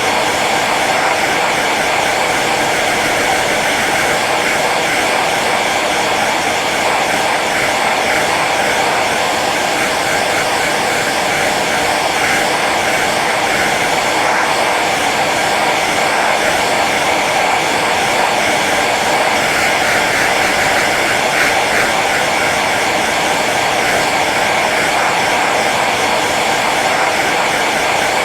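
Hair dryer running steadily on its low setting: an even rushing of blown air with a faint motor whine, unchanging throughout.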